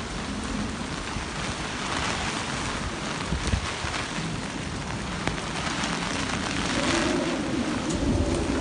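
Heavy typhoon rain pouring down steadily, with gusts of wind swelling about two seconds in and again near the end, and a couple of low thumps.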